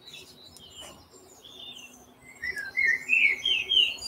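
Garden songbird singing: a quick run of short warbling chirps in the second half, after a quieter start.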